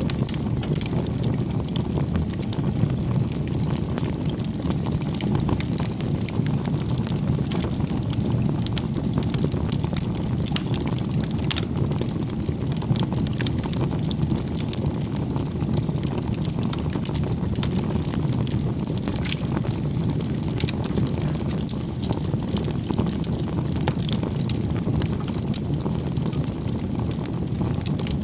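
Wood fire burning: a steady low roar of the flames with frequent small crackles and pops throughout.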